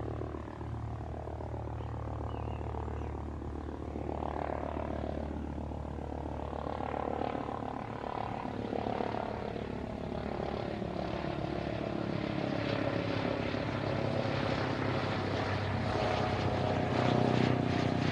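Airbus H145 twin-engine helicopter flying over, its rotor and turbine drone growing steadily louder as it approaches.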